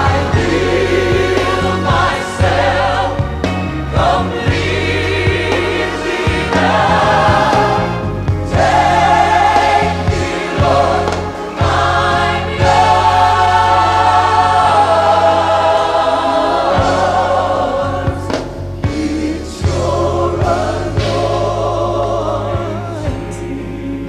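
Gospel choir singing a slow worship song with wavering, sustained notes over the band's steady bass, growing a little quieter near the end.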